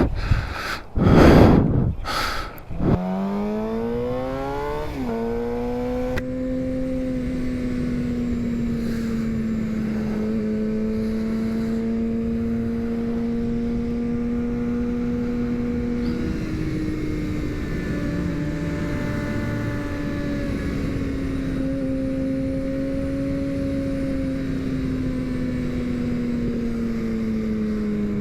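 Suzuki GSX-R750 inline-four engine heard from the rider's seat: after a few loud bursts of noise at the start, it rises in pitch as the bike accelerates, drops at a gear change about five seconds in, and holds a steady cruising note. About sixteen seconds in the pitch steps up, then slowly falls toward the end.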